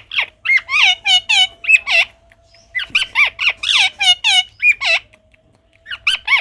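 Parrot calling in rapid runs of short, pitched squawks that dip and rise in pitch, with a short pause about two seconds in and another near the end.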